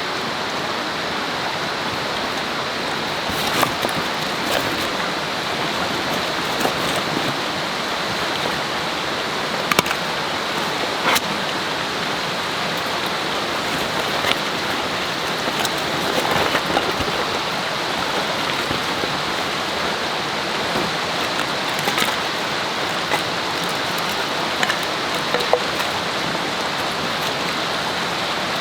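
Steady rushing of a flowing river, with scattered short sharp clicks and taps about a dozen times over it.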